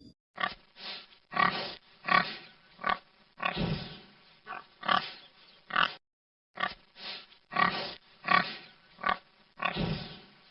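Pig grunting in a run of short calls, one or two a second, with a brief break about six seconds in.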